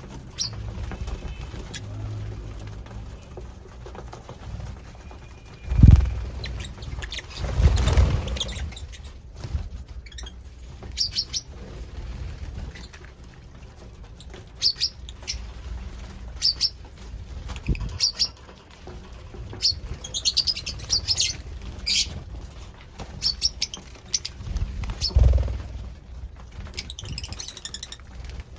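Lovebirds giving short, high chirps every second or two, with a few dull low thumps, the loudest about six seconds in.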